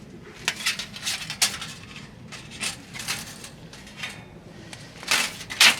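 Irregular clinks and knocks of hard objects being handled, like metal camp gear or firewood being moved about, with two louder clatters near the end.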